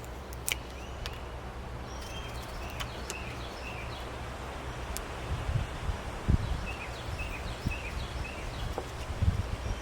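Wind buffeting the microphone with a low rumble that turns gusty in the second half, while small birds chirp in short runs of quick notes, once early on and again in the second half. A few sharp clicks are heard now and then.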